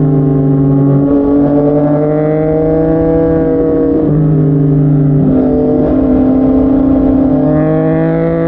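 Yamaha MT-09's three-cylinder engine running through a Yoshimura R55 slip-on exhaust while the bike is ridden, its note stepping briefly a few times and then climbing in pitch near the end.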